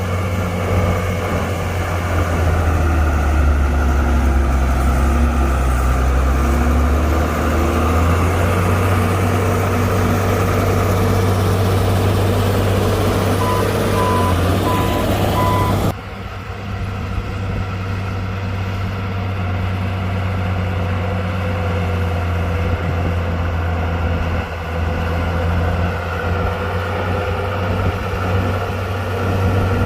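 Heavy diesel earthmoving machinery, a bulldozer and dump trucks, running steadily under load. A reversing alarm beeps four times about halfway through. Just after, the sound changes abruptly and becomes duller.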